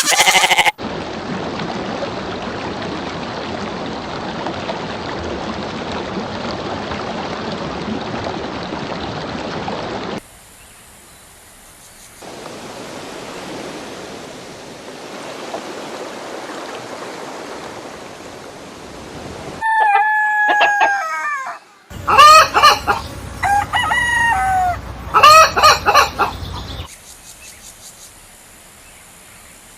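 Rooster crowing and chickens calling over the last part, a run of loud falling calls; before that, about twenty seconds of steady background noise.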